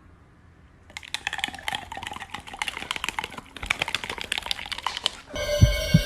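Rapid, irregular clicking, like keys being typed on, starting about a second in and running for about four seconds. Near the end, music with held tones starts.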